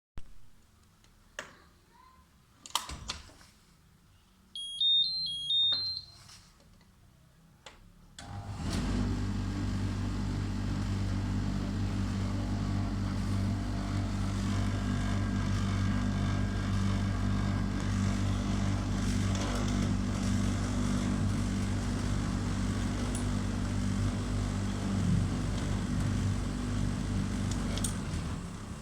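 BEKO tumble dryer control panel: a few button clicks and a short melody of beeps, then the dryer's drum motor starts about eight seconds in and runs with a steady hum, the machine running in its test mode.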